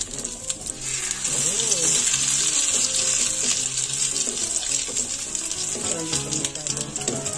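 Sardine-and-egg omelettes sizzling in hot oil in a frying pan. The sizzle grows louder about a second in and then holds steady.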